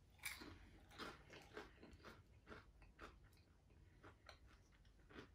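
Quiet crunching as a fried crab rangoon's crisp wonton shell is bitten and chewed. There is a sharp bite about a quarter second in, followed by irregular crunches.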